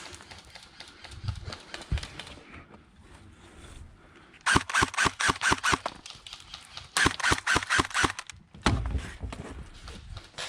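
Airsoft gun firing two rapid bursts of about ten sharp clacks a second, the second burst about a second after the first ends. A couple of dull thumps come before them.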